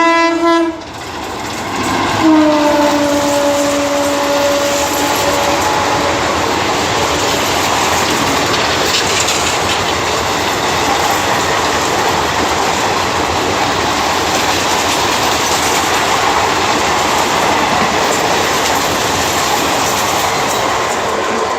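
Indian Railways train horn sounding twice, a short blast and then a longer one that drops in pitch as the train goes by, followed by the steady loud rush and clatter of the coaches passing at speed.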